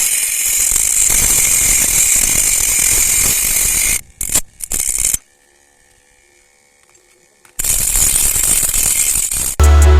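Homemade angle grinder driven by a 775 DC motor running with a loud steady high hiss, breaking into a few short bursts after about four seconds, then stopping for about two seconds before starting up again. Music with a drum beat comes in near the end.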